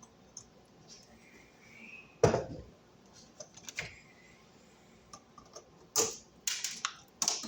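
Knocks and clatter of small hardware and tools being handled: one sharp knock about two seconds in, then a quick series of clattering knocks and clicks near the end.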